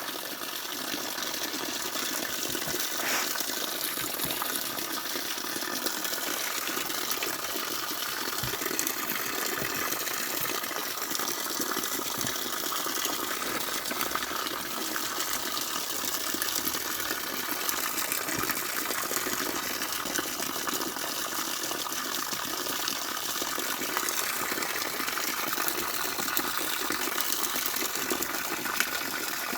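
A steady rushing noise, even throughout.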